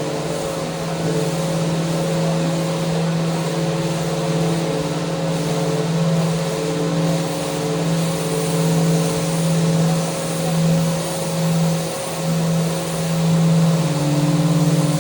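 Electric power sander running steadily on a mounted handrail: a steady motor hum over a sanding hiss, its level swelling and dipping slightly.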